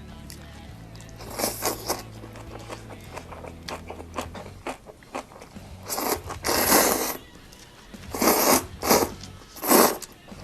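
Crunchy food being bitten and chewed close to the microphone, in several loud crunching bursts: a short one, then longer ones later on.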